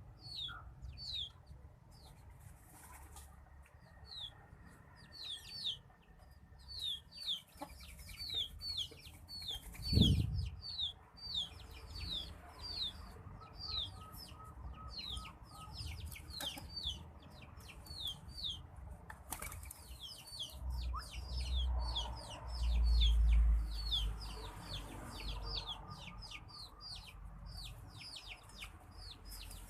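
White-breasted waterhen flapping its wings while bathing in water, with a thump about ten seconds in and a low rumble a little past the middle. Throughout, quick high falling chirps repeat about twice a second.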